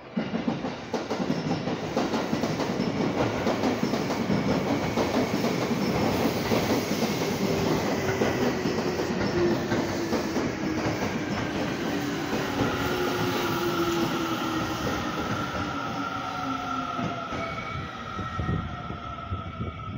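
Seibu Railway electric commuter train running past the platform with loud wheel rumble and clatter on the rails. From midway, its motor whine falls slowly in pitch as the train slows into the station, and a thin high tone joins in near the end.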